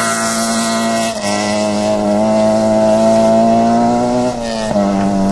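Toyota Yaris rally car's engine running at high revs, its pitch climbing slowly, then dropping sharply near the end.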